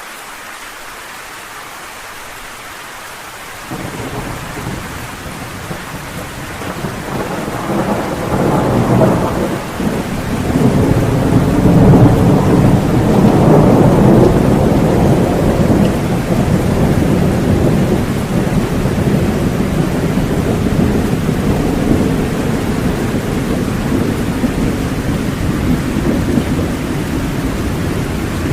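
Steady heavy rain with a long roll of thunder. The rain steps up in level about four seconds in; the thunder swells from about seven seconds, is loudest a few seconds after that, and slowly rumbles away under the rain.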